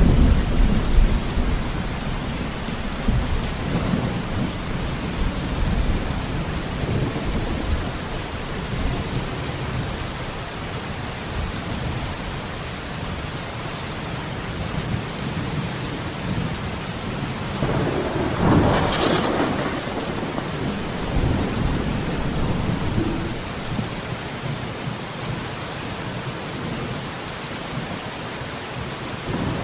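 Steady heavy rain falling through forest, with low thunder rumbling in the first few seconds and a louder, sharper thunderclap about two-thirds of the way through.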